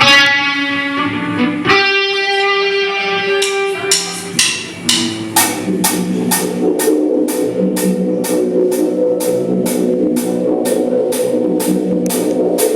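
Live rock band in an instrumental passage: long held electric guitar chords, then about five seconds in the drums come in with a steady beat, a cymbal struck about twice a second.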